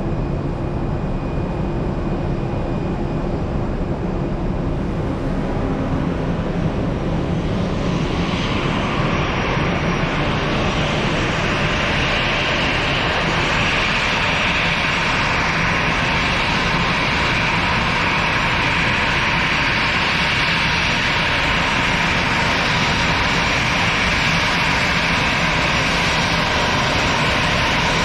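Jet aircraft engine noise: a steady rumble, joined about eight seconds in by a high whine that swells and then holds.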